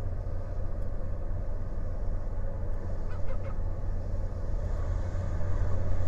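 A steady low rumble, with a gull giving three quick calls about three seconds in.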